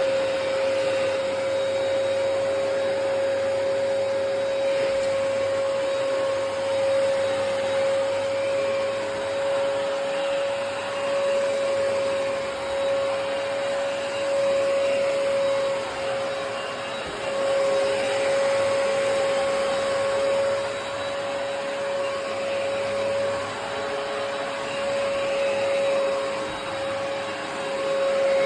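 Hoover PowerDash Pet+ compact carpet cleaner running steadily: a motor whine on one constant pitch over a continuous rush of air, swelling slightly in loudness now and then.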